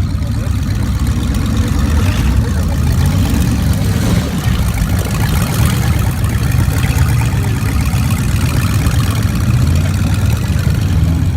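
Truck engine running steadily at an even pitch, with no revving, its sound deep and low.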